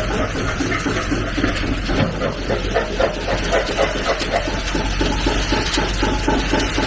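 1920s rock crusher running, rock crunching and rattling through it in a rapid, regular chatter over a rushing noise, with the 1949 Oliver six-cylinder tractor engine running steadily underneath.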